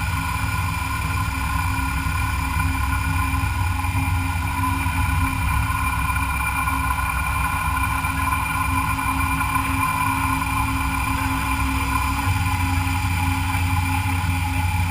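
CNC milling machine running steadily: a constant whine made of several steady tones over a low hum, with the hum shifting about twelve seconds in.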